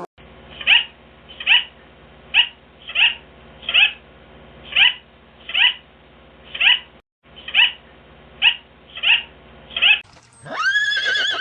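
A kitten mewing over and over: about a dozen short mews, each rising in pitch, a little under a second apart. Near the end a horse starts to whinny.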